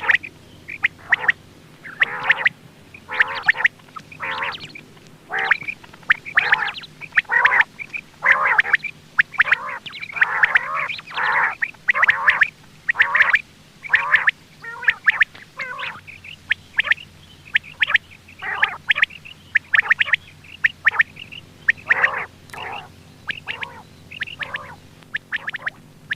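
Quail calling over and over: short, sharp calls repeated about one to two times a second.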